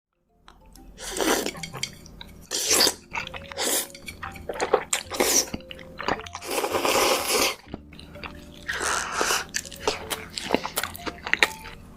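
Close-miked mukbang eating sounds: a string of separate wet, crunchy bites and chews about a second apart, with one longer noisy bite or slurp in the middle.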